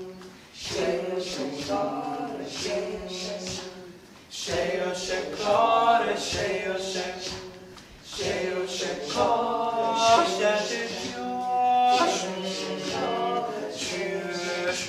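A group of voices singing together unaccompanied, in phrases of about four seconds, over a steady rhythmic beat of sharp accents.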